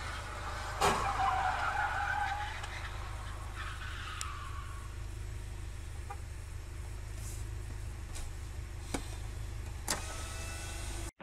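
Sound inside a stationary car at a junction: the steady low hum of its idling engine. A brief higher noise comes about a second in, another around four seconds, and two sharp clicks near the end.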